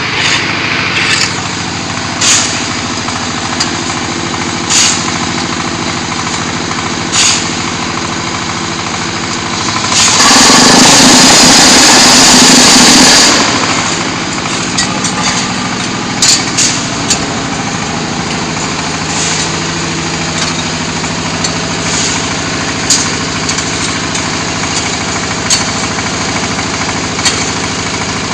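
Diesel engine of a QT4-30 hydraulic block-making machine running steadily, with sharp clicks and knocks every few seconds from the machine's working cycle. About ten seconds in, a much louder harsh noise lasts for about three and a half seconds, then the engine runs on.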